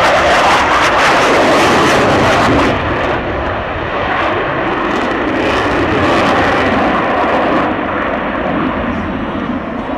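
An airplane's engine noise, a loud even rush that is loudest for the first few seconds and keeps going throughout.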